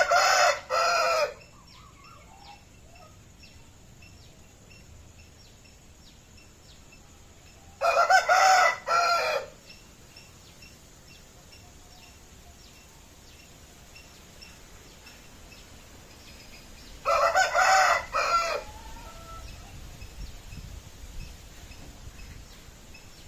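Aseel rooster crowing three times, about eight seconds apart, each crow short and broken into two or three parts.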